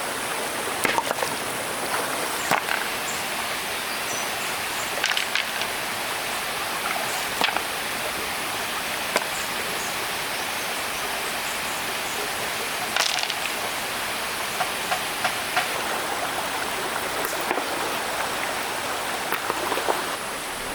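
Stream water flowing steadily, with scattered sharp knocks and clacks through it.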